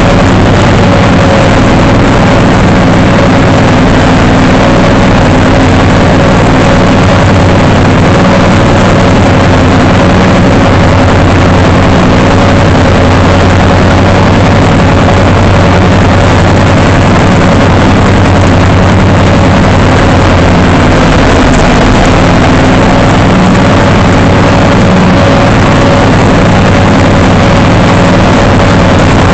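Small gasoline engine running loud and close at a steady, constant speed, with a steady whine over a dense rushing noise.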